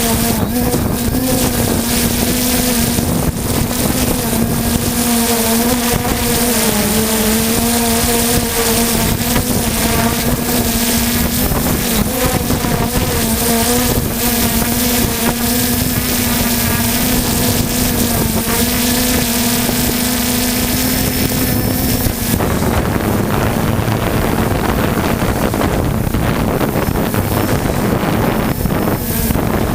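3DR Solo quadcopter's motors and propellers humming at a steady, slightly wavering pitch under heavy wind buffeting on the microphone. About 22 seconds in, the hum is drowned by a harsher rush of wind noise.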